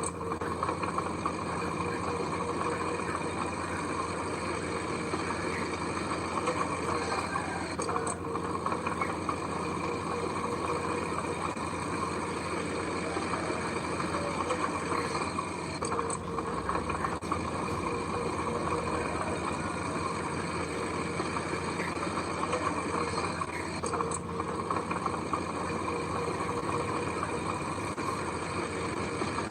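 Heavy construction machinery engine running steadily, with a dense, even mechanical noise and no clear changes in speed.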